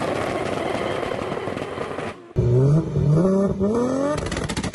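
High-powered Toyota Supra 2JZ inline-six at full throttle, loud and harsh with a fast crackle. About two seconds in the sound cuts off abruptly. The engine then revs hard in a series of short rising sweeps, with a burst of sharp crackling near the end.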